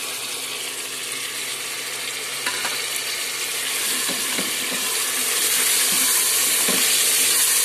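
Beef masala sizzling in a pot as whisked yogurt is added and a wooden spoon stirs it in. The sizzle grows louder about four seconds in, with a single knock about two and a half seconds in and light scrapes of the spoon after.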